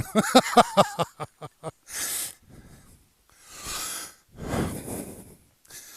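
A man laughing, a run of short pulses that fade over about a second and a half, then breathing hard, four loud breaths in and out.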